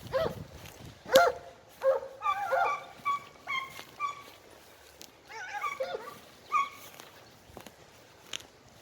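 A pack of segugio hounds giving tongue on a hare's scent trail: a run of short, pitched yelping bays, some overlapping, that stops about seven seconds in.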